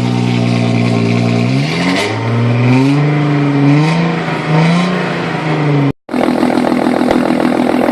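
Audi A4 2.8 V6 engine heard through its exhaust. It holds at raised revs, drops back, then is blipped three times, the pitch rising and falling with each. After a cut about six seconds in, it runs steadily at idle with a more crackly exhaust note.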